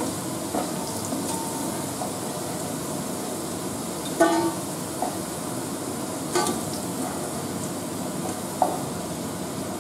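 Potato cubes sizzling steadily in hot mustard oil in a nonstick kadai while a wooden spatula scoops them out, with a few short knocks of the spatula against the pan.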